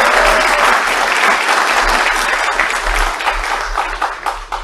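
Audience applauding, a dense clapping that thins out and stops near the end.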